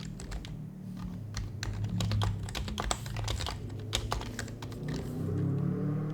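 Typing on an HHKB Professional HYBRID Type-S keyboard, its Topre capacitive switches making soft, muted keystrokes in a quick continuous run that thins out near the end.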